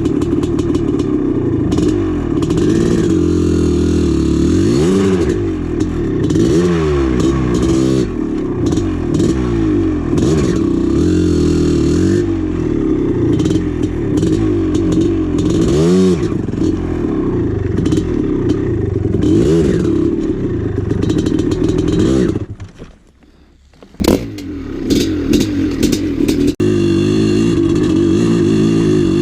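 1996 Maico 440 two-stroke single-cylinder dirt bike engine being ridden, its revs rising and falling every second or two. Around two-thirds of the way through it goes much quieter for about a second and a half, then comes back with a few sharp knocks before settling into a steady note.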